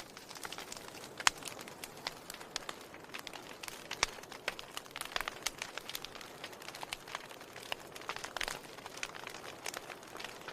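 Wood fire burning: a soft steady hiss with frequent irregular crackles and sharp pops, the sharpest about a second in and again about four seconds in.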